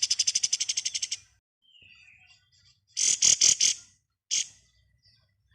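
Kapas tembak bird singing its 'ngebren' song. A fast machine-gun-like rattle of about fifteen notes a second stops about a second in. Near the end come a quick burst of four or five loud, high notes and then one more sharp note.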